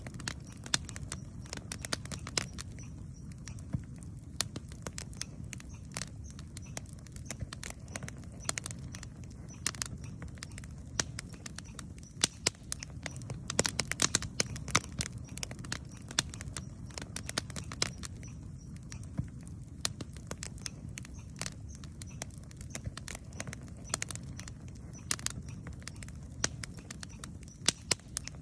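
Campfire crackling: frequent, irregular sharp snaps and pops over a low, steady rumble.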